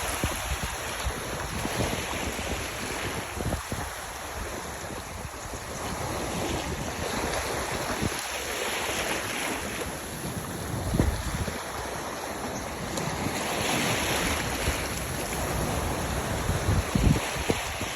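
Sea waves washing in and out, with wind buffeting the microphone in low gusts, strongest about eleven seconds in and near the end.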